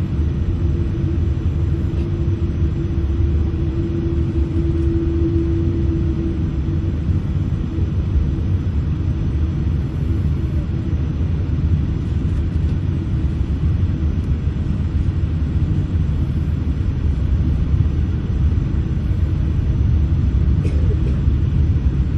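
Boeing 787-8 airliner cabin while taxiing: a steady low rumble from the engines at idle and the aircraft rolling on the taxiway, with a constant hum that swells briefly about five seconds in.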